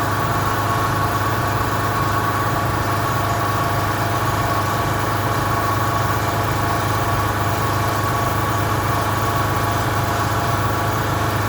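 Air compressor running, a steady hum with a high whine on top.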